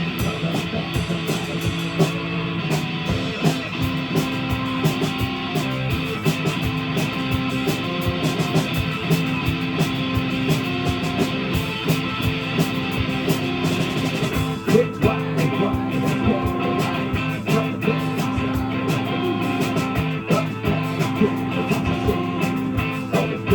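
Live rock band playing an instrumental passage: electric guitar with a drum kit keeping a steady beat.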